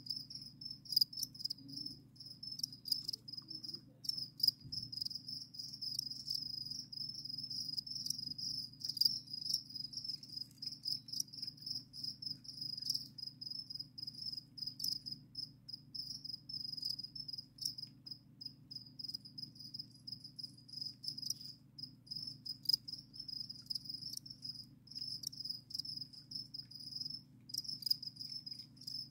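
Crickets chirping in a dense, continuous, high-pitched pulsing chorus, with scattered short clicks, over a steady low hum.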